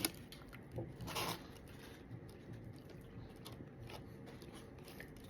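Faint sounds of a man eating soft cake: quiet chewing, with a short rustling scrape about a second in.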